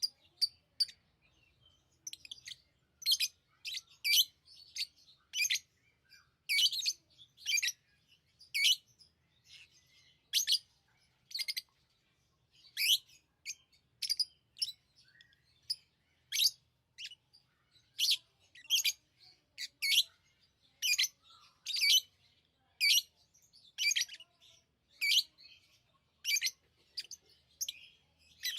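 Pet lovebirds chirping: short, sharp, high-pitched calls, roughly one a second, with brief gaps between them.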